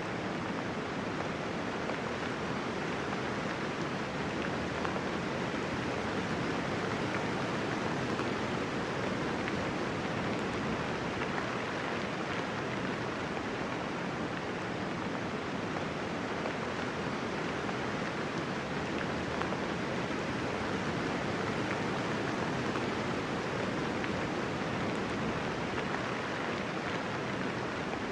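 Steady soft rain falling, an even hiss with no thunder.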